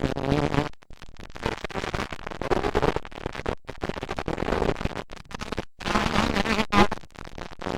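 Motocross dirt bike engines running and revving, their pitch rising and falling, with the sound dropping out abruptly for an instant a few times.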